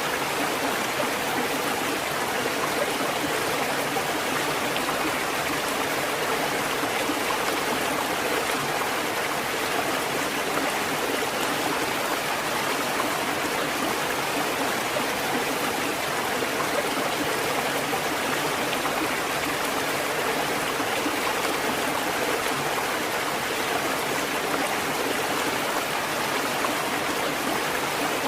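Water fountain running: a steady, unbroken rush of falling and splashing water.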